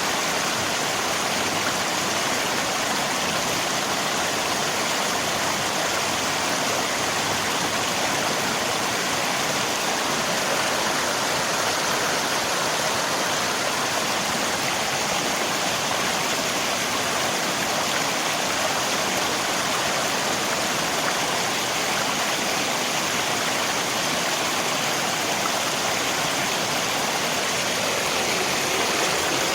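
River water rushing steadily, mixed with falling rain, in an even, unbroken hiss.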